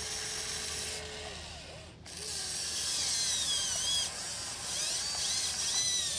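Electric motors of a 1580 RC excavator whining as it works the arm and bucket. The whine is steady at first, breaks off briefly about two seconds in, then rises and falls in pitch several times as the moves change.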